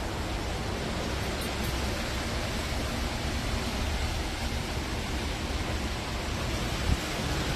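Strong wind blowing across the microphone: a steady rushing noise with a heavy low rumble, and a brief louder buffet near the end.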